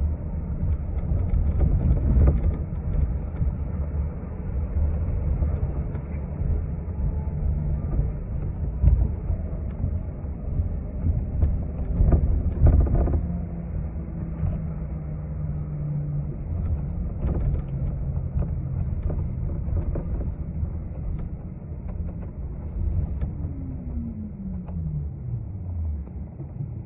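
City transit bus heard from inside the cabin while driving: a steady low engine and road rumble with a few knocks, and the engine's pitch falling steadily near the end as the bus slows down.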